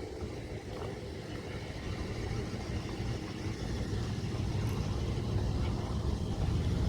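2003 Dodge Ram 1500's 5.7-litre Hemi V8 running, a low rumble that grows slowly louder.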